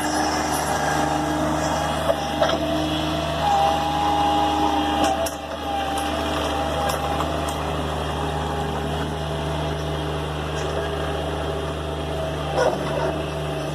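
An engine running steadily at a constant speed, with a few sharp clicks and knocks over it.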